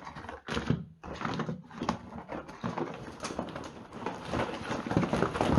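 Rustling and clattering of small fireworks packets and their packaging being handled and set down, with many quick knocks and crinkles.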